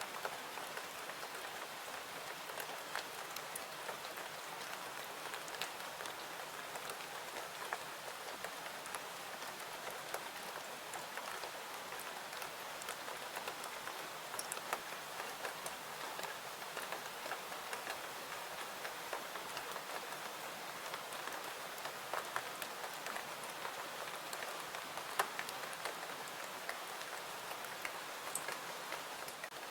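Steady rain falling, with scattered sharp crackles of a wood fire mixed in.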